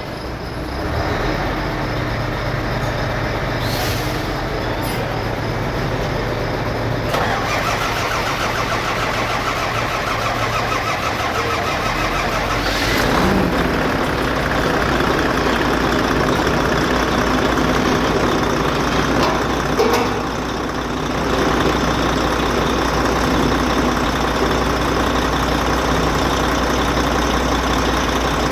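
Volvo truck diesel engine starting about a second in and then running steadily, with a change in its note about twelve seconds in and a brief dip near twenty seconds. It is running evenly again now that the faulty injector behind its misfire and white smoke has been dealt with.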